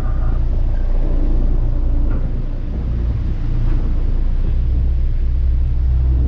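Wind buffeting the microphone aboard a moving passenger ferry, a loud steady low rumble over the drone of the boat's engine.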